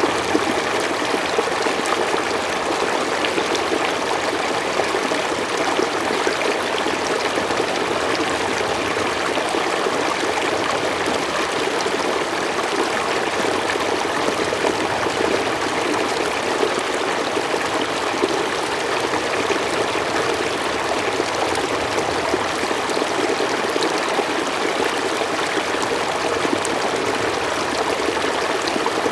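Mountain stream flowing steadily over rocks, a constant rush of water.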